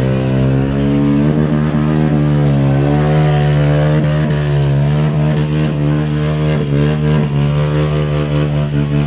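Car engine held at high revs, the pitch steady with a slight waver, as during a burnout.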